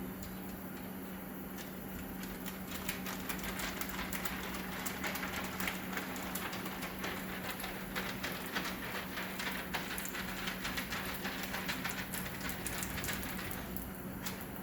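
Clear plastic liner being peeled off wet window tint film, a continuous crackling hiss from about two seconds in until shortly before the end. A steady low hum sits underneath.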